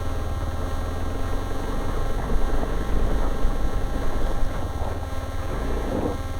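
Motorcycle engine running under way with wind rushing over the microphone: a steady low rumble under a noisy rush.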